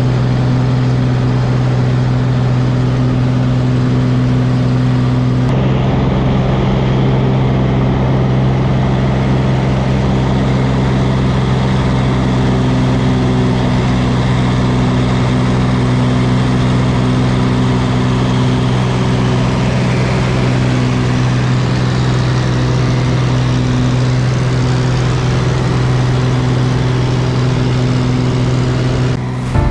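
Small seaplane's propeller engine droning steadily, with a slight shift in its tone about five seconds in. It cuts off abruptly just before the end.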